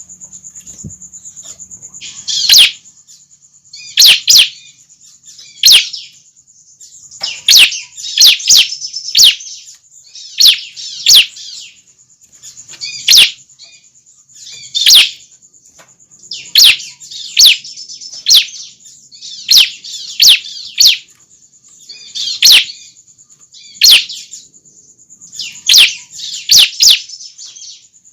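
Young ciblek (prinia) calling: short bursts of sharp, rapid high chirps, repeated every second or two.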